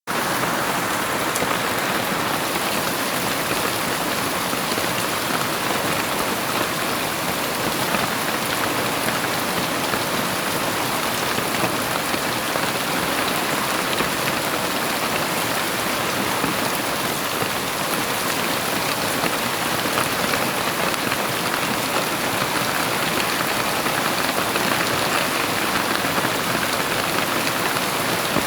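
Heavy rain falling steadily, a continuous even hiss of many drops striking a surface, without a break or change in level.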